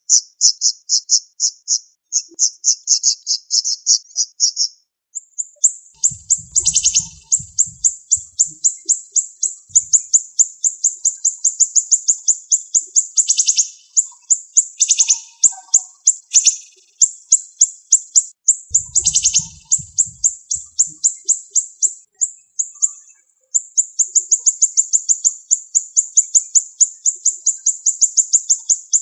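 Siri-siri bird singing a fast, high-pitched stream of sharp, closely spaced notes with hardly a pause. A few louder notes stand out in the run.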